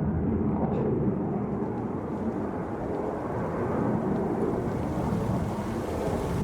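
Su-57 fighter's twin jet engines in flight, a steady low rumble.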